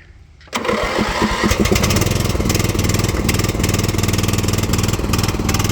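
Ranch King riding lawn mower's engine starting from cold with the choke pushed in: about half a second in it turns over with quickening pulses, catches, and settles into a steady run.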